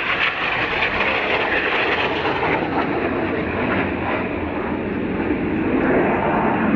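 Several BAE Hawk jets of a formation flying overhead, a steady rushing jet noise whose hiss gradually dulls.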